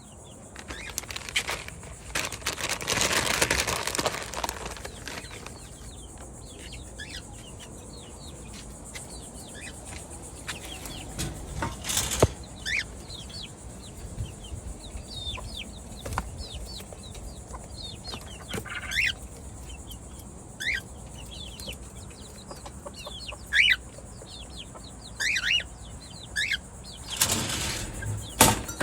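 Birds chirping in many short, quick, falling chirps, a few at a time and at uneven spacing, with a burst of rustling, flapping noise near the start and another near the end.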